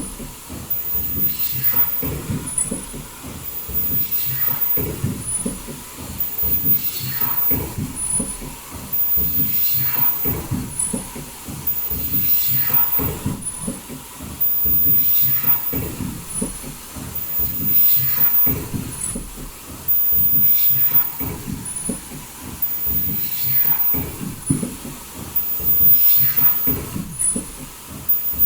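Foldable N95 mask production line with automatic valve welding running steadily: dense mechanical clatter with a short high-pitched tone repeating about every two seconds as the machine cycles.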